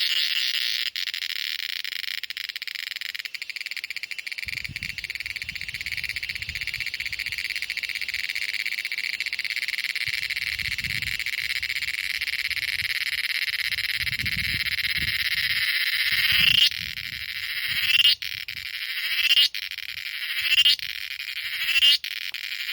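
Cicada calling: a steady high-pitched buzz, which about three-quarters of the way in turns into a run of five rising, swelling calls, one every second or so, each cutting off sharply.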